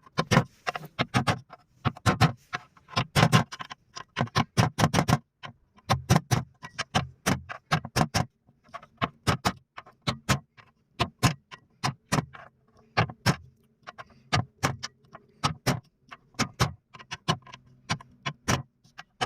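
Irregular sharp metallic clicks and taps, a few a second, from hand tools working on a Cummins 4BT diesel engine during a timing oil seal change. A faint steady hum sits underneath from about halfway through.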